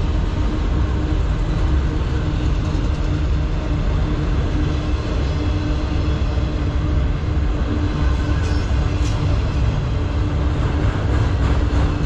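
Autorack freight cars rolling past: a steady low rumble of steel wheels on the rails.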